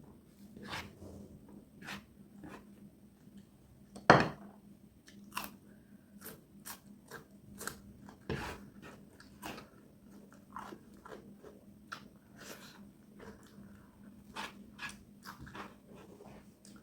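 Close-miked chewing and crunching of food, a run of short sharp crunches and clicks with one much louder sharp sound about four seconds in.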